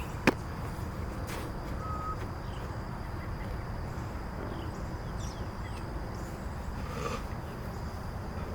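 Outdoor ambience: a steady low rumble of wind or distant traffic with faint bird chirps and a thin insect-like whine. One sharp smack sounds just after the start.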